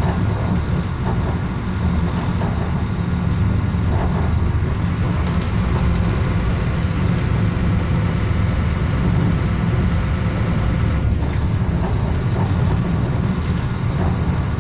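Moving passenger train heard from inside the carriage: a steady low rumble of wheels and running gear.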